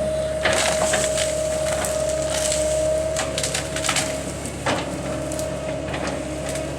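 Brush and branches cracking and splintering in a run of sharp snaps, over a steady machine whine.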